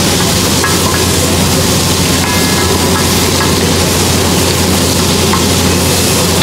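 Loud, steady sizzle of an onion-tomato tadka frying in butter on a large flat tawa, with a few short metallic scrapes and clinks from the spatula stirring it.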